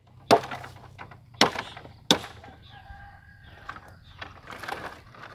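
Three sharp chopping strikes of a hand tool cutting into vegetation or ground during land clearing, the first two about a second apart and the third quicker, followed by lighter knocks and rustling. A rooster crows faintly in the background.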